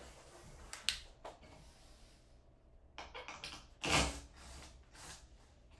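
A few sharp clicks and knocks: one about a second in, a cluster starting about three seconds in, and the loudest knock about four seconds in.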